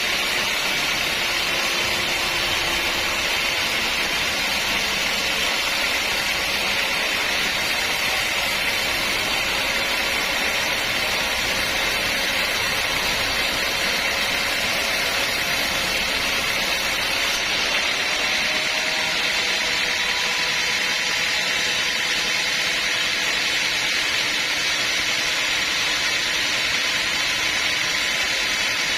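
Sawmill machinery running steadily: a constant mechanical noise with a strong high hiss and no break.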